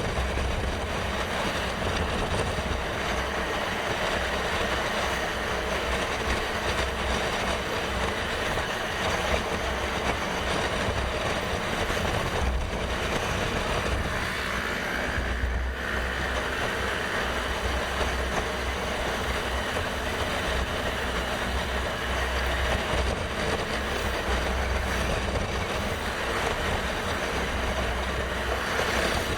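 Motorcycle riding at road speed: steady engine and road noise with wind rushing over the microphone.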